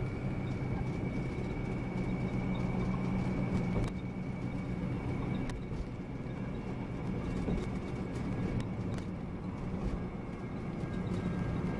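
Volvo B9R coach's engine running under way with road noise, heard from inside the passenger cabin, with a faint steady high-pitched whine above it and occasional light ticks and rattles.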